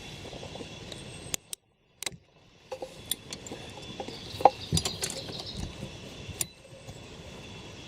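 Scattered metallic clinks and small knocks of tools and parts being handled during car repair work, with the sound cutting out completely for about half a second near the start.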